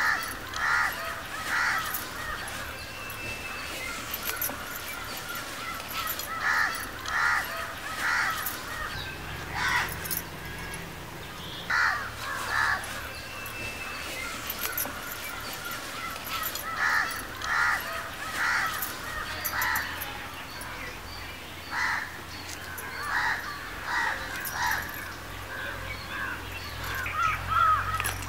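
Birds calling outdoors: short calls repeated in runs of two or three, every few seconds.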